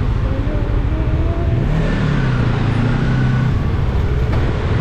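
Rusi Cyclone 400S motorcycle engine running while under way, its note shifting slightly in pitch over a steady low rumble.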